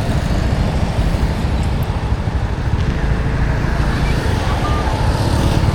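Road traffic heard from a moving motorbike in a busy junction: a steady low rumble of engines and tyres.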